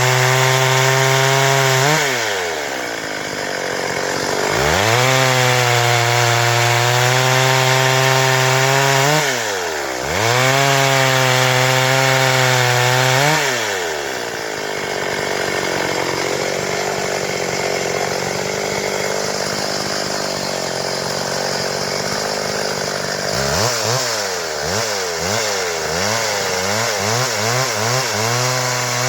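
Stihl MS 382 two-stroke chainsaw held at high revs in three stretches, each falling back towards idle, then running low for several seconds before being blipped up and down in quick succession near the end.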